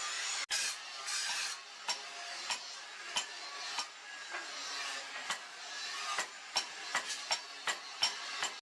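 Hand-tool scraping and rubbing during workshop work on a machete, with light sharp clicks at irregular intervals that come more often towards the end; the sound breaks off abruptly about half a second in and resumes.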